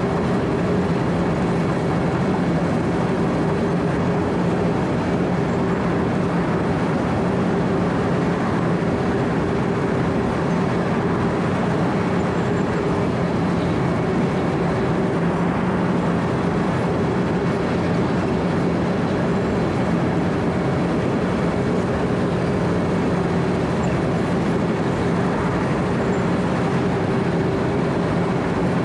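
Wirtgen W 120 CFi cold milling machine running steadily while its drum cuts asphalt, heard from the operator's position: an even, unbroken engine drone with a steady low hum over a grinding haze.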